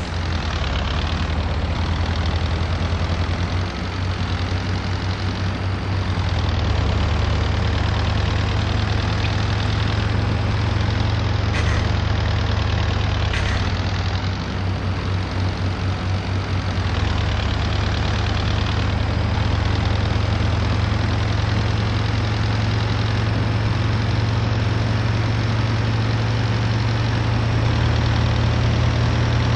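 MAZ-241 bus's diesel engine running steadily, heard from inside the passenger cabin as a low hum over road and cabin noise. Two short clicks come about 12 and 13.5 seconds in.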